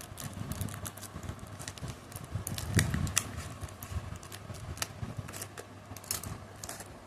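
Handling noise from unpacked potted plants and their wrapping: irregular crackles and clicks with a few soft knocks, the loudest a little before halfway.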